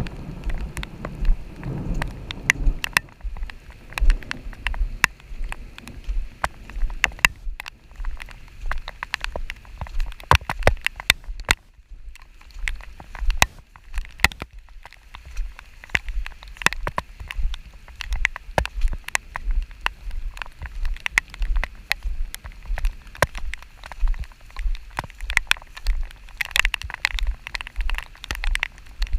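Rain falling, heard as a dense run of irregular sharp drop taps, several a second, over a low rumble.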